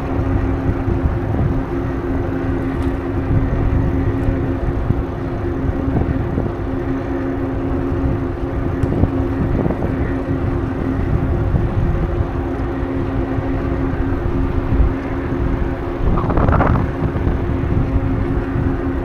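Wind buffeting the microphone of a moving bicycle ride, a heavy low rumble with a steady low hum underneath. About three-quarters of the way in there is a brief louder swell.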